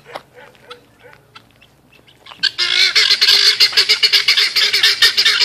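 A flock of fowl bursts into loud, rapid, overlapping squawking calls about two and a half seconds in, after a quieter start with only faint scattered sounds.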